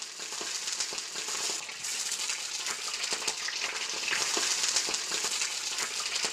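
Food frying in hot oil, a steady sizzle with fine crackles.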